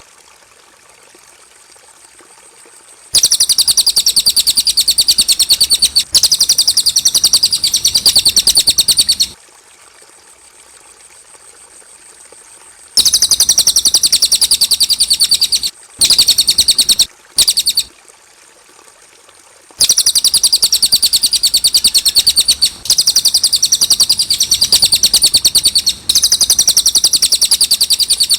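Cililin songbird singing long, fast, high-pitched trills in runs of several seconds, with short breaks and a few brief bursts between runs.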